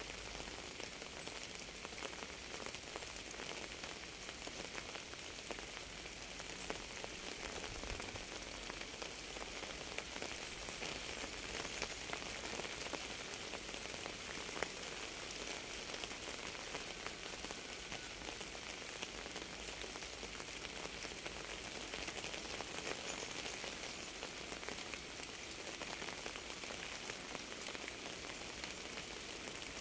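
Steady rain falling on a surface, a dense even patter of drops with an occasional louder single drop.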